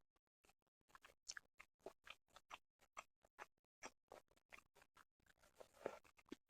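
A person chewing sushi: soft, wet mouth clicks and smacks, a few a second and irregular, with one louder smack near the end.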